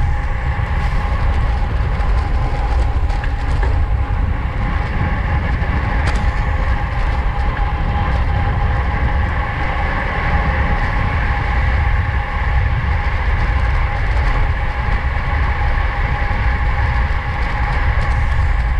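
Steady wind rush over the microphone of a bicycle racing at speed in a pack, mixed with a constant whir from the racing bikes.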